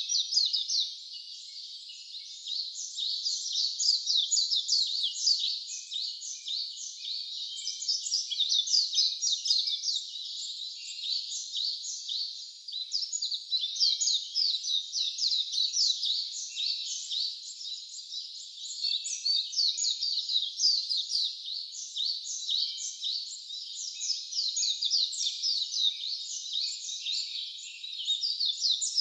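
A dense, continuous chorus of rapid, high-pitched chirps from many wild birds singing at once, each note a quick falling sweep.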